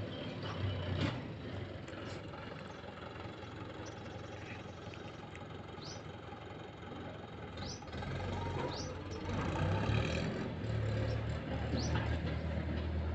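A vehicle engine running steadily, growing louder about eight seconds in as it takes up the load of towing a car on a rope. A few short, high rising chirps sound over it.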